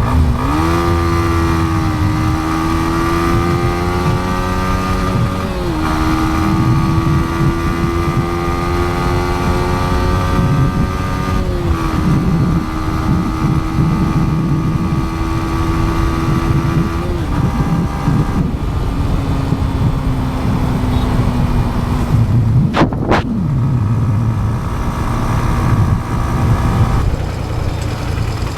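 Yamaha MT-15's single-cylinder engine pulling hard through the gears: the engine note rises, drops at an upshift about 6 s and 12 s in, then settles to a steady cruise and eases lower, with a brief sharp break in the note about three-quarters of the way through. Wind buffeting the helmet/action-camera microphone makes a constant low rumble underneath.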